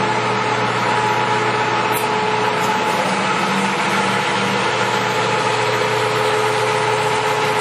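American Model C heavy-duty engine lathe running under power, its spindle and headstock gearing turning steadily. A smooth, even machine hum with a few steady whining tones, the sound of a headstock running quiet and smooth.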